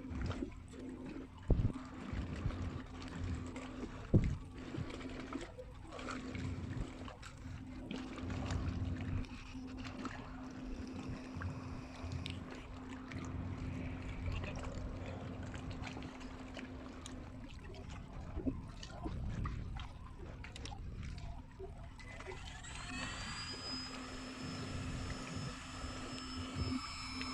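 Water splashing and lapping at an inflatable boat, with the steady hum of an electric marine thruster. A couple of sharp knocks come in the first few seconds. Near the end a higher-pitched electric whine starts up, rising briefly before holding steady.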